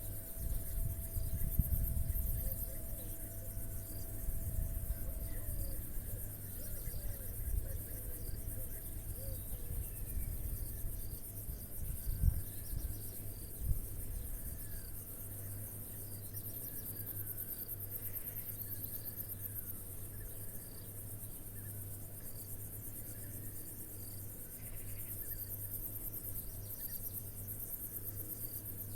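Crickets chirping in a dense, steady, high-pitched chorus with a fast pulsing rhythm. Low rumbling and a few low thumps come in the first half, loudest about twelve and fourteen seconds in.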